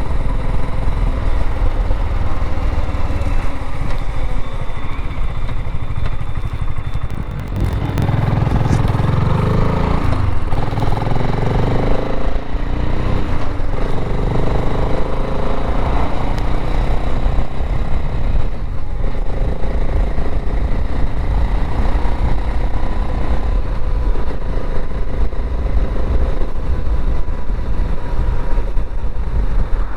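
BSA Gold Star 650's single-cylinder engine running on the road with wind rush. Between about eight and sixteen seconds in, the engine pitch climbs and drops back several times as it accelerates through the gears, then settles to a steady cruise.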